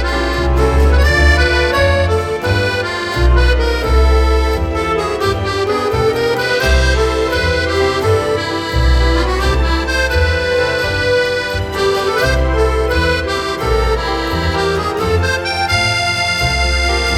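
Accordion music playing a lively melody over a steady, repeating bass line.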